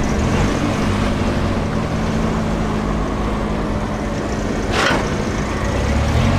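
Vehicle engine running steadily, with a short burst of hiss about five seconds in.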